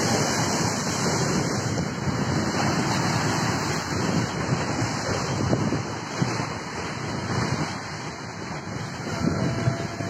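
Strong wind gusting over the microphone, mixed with the noise of heavy waves breaking against the harbour.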